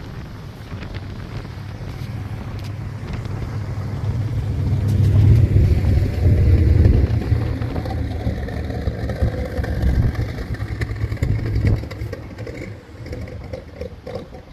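Built 350 cubic-inch V8 of a 1952 Chevrolet 3100 pickup running through its dual Magnaflow exhaust as the truck is driven. The sound grows louder to a peak about five to seven seconds in, then falls away.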